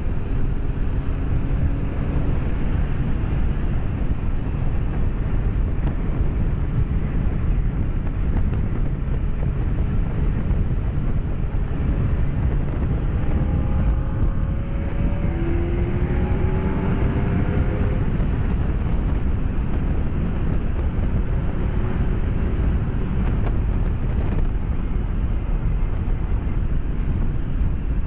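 Wind rush on a helmet-mounted microphone over the BMW K1200S's inline-four engine running at road speed. About halfway through, the engine note rises in pitch for a few seconds as the bike accelerates.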